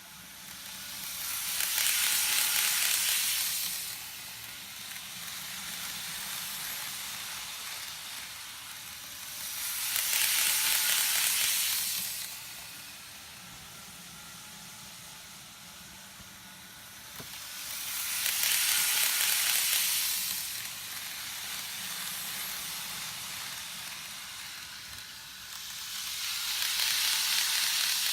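Model trains running on a looped double-track layout: a steady high-pitched rolling hiss of wheels and motors that swells four times, about every eight seconds, as a train passes close by.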